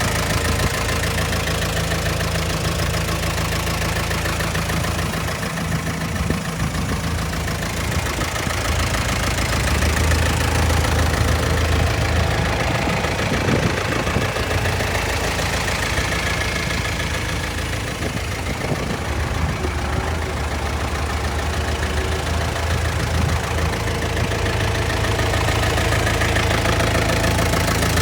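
Diesel engine of a Yale GDP 2.5 forklift running steadily at idle, its note shifting slightly a few times.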